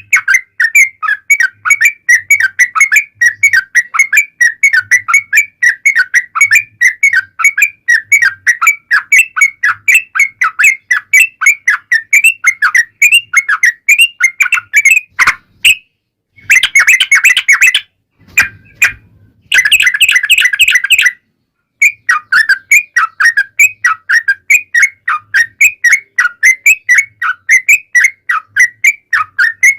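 Yellow-vented bulbul (trucukan) singing a long, fast run of chattering notes with no pause. Past the middle it is broken by two denser, harsher stretches and brief silences, then the run picks up again.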